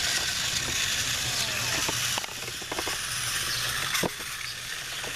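Battery-powered TrackMaster toy trains running on plastic track: small electric motors and gears humming steadily, with scattered clicks and knocks from the wheels and cars on the track pieces.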